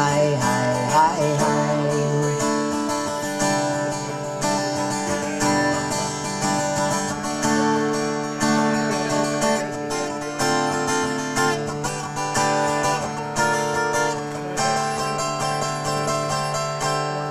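Acoustic guitar playing an instrumental closing passage after the last sung line of the song.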